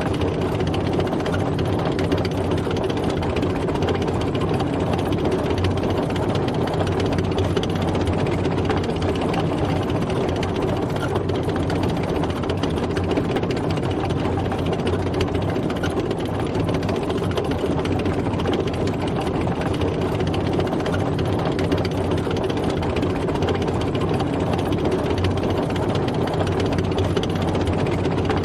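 Tank driving, its engine running steadily with no change in pitch or level.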